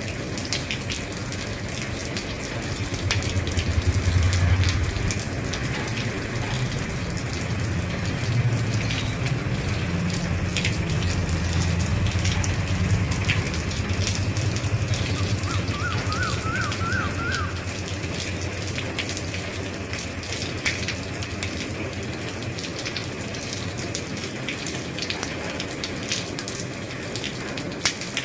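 Steady rain falling on an old roof, with many separate drops ticking on the surface and a low rumble that swells and eases through the first half. About halfway there is a brief run of five quick rising chirps.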